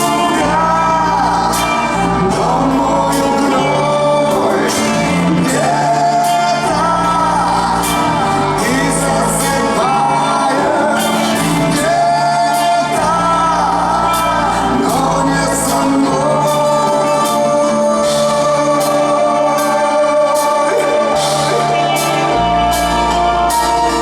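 A band's song performed live: a singer over bass, guitar and a drum kit.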